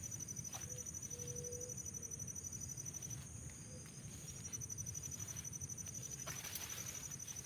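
Insect trilling steadily in a high, rapidly pulsing tone over a low rumble, with a brief faint whistle about a second in.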